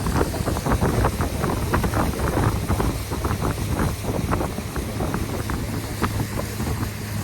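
A river boat's motor running with a steady low hum, water splashing and slapping around the hull in quick irregular bursts, thickest in the first four seconds, and wind buffeting the microphone.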